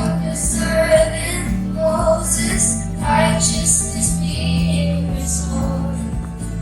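Children's choir singing a praise and worship song over sustained instrumental backing.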